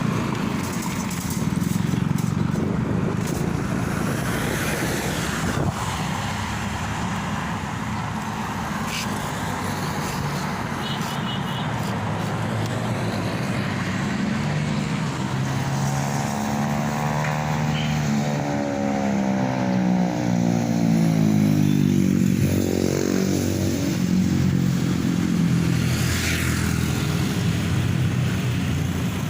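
Motorcycle engine running steadily while under way. Midway through, a louder passing sound sweeps down and then back up in pitch, fitting a low aircraft going over.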